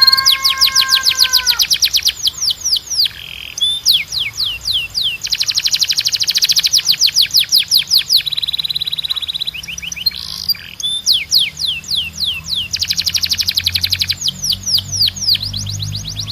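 Timbrado canary singing: fast, even trills of rapidly repeated notes alternating with runs of quick falling whistled sweeps, phrase after phrase with short breaks between them.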